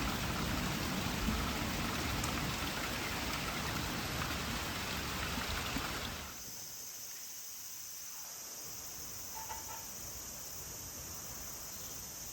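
Steady outdoor rushing noise that cuts off suddenly about six seconds in. After it comes a quieter, steady high-pitched insect drone.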